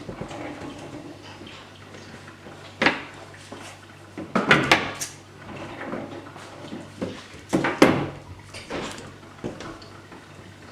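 Knocks and clatter of work on a wooden bed frame, with wires and tape being handled. There is a sharp knock about three seconds in, a quick run of knocks around four and a half seconds, and another loud knock near eight seconds, over light rustling.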